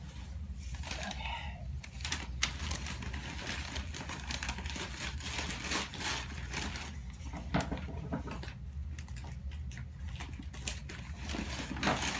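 Paper packing wrapping rustling and crinkling in irregular bursts as it is handled and unfolded from around shipped orchid plants, over a steady low hum.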